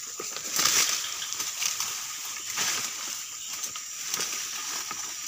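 Footsteps wading through shallow swamp water, with irregular sloshes and splashes. Insects keep up a steady high drone behind them.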